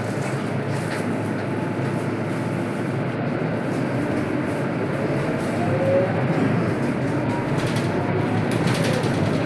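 Scania K230UB city bus with its five-cylinder diesel running, a steady engine and road noise. A faint whine rises and falls near the middle.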